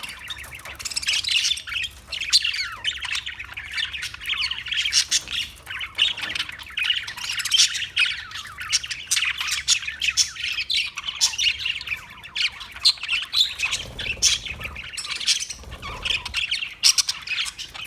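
Parakeets chirping and squawking, a dense chatter of many short, sharp calls overlapping one another.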